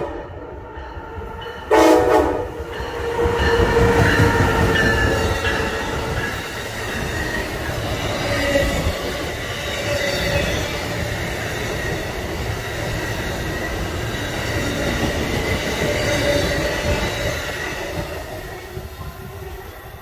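Amtrak electric passenger train sounding a short horn blast about two seconds in, then running past at speed: a loud, steady rush of wheels on rail that fades near the end as the train moves away.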